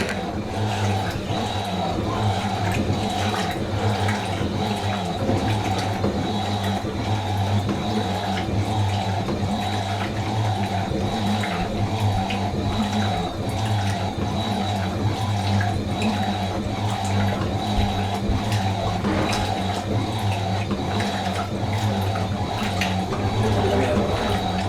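Fisher & Paykel MW512 washing machine running, with water rushing steadily and a constant mechanical hum underneath.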